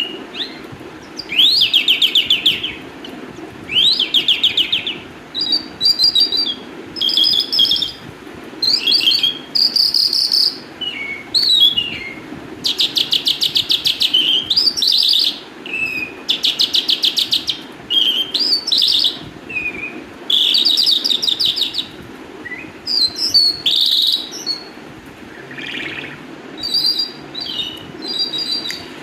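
Calandra lark singing a long, varied song: rapid trills, buzzy notes and quick rising and falling whistles in phrases of a second or two, with short pauses between them.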